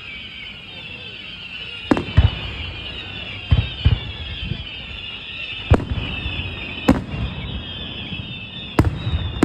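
Fireworks bursting: about seven sharp booms, some in quick pairs, over a steady high hiss.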